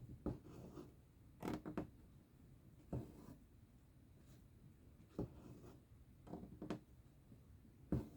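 Needle and thread drawn through cross-stitch fabric: faint, short rasping strokes at irregular intervals of about a second, eight or so in all.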